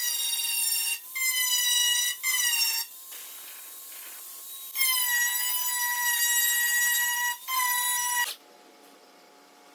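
A grinder working down metal on a car body, its high whine coming in five short bursts as it is triggered on and off. The pitch sags slightly just after each burst starts, and the whine cuts off sharply about eight seconds in.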